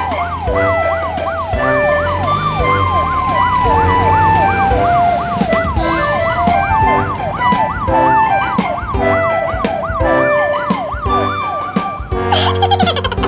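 Police-car siren sound effect wailing up and down in quick sweeps, about three a second, that stop shortly before the end. It plays over children's background music with a steady beat.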